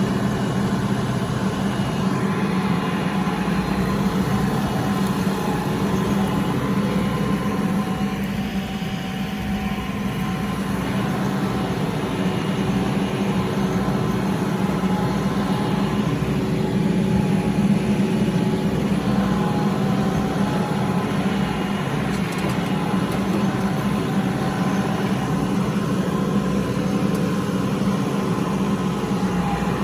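Kioti RX7320 tractor's diesel engine running steadily, its level dipping and rising slightly as it works.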